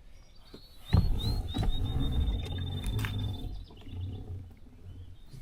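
A songbird singing a few rising whistled notes that speed up into a steady high trill. Under it, a loud low rumble starts sharply about a second in and fades out after a couple of seconds.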